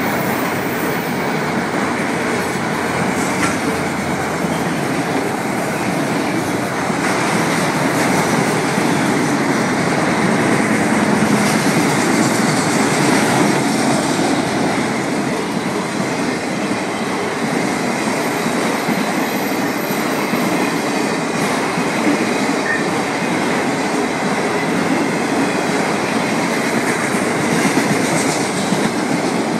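Florida East Coast Railway freight train of autorack cars rolling past at a grade crossing: a steady, continuous rumble and rattle of steel wheels on the rails.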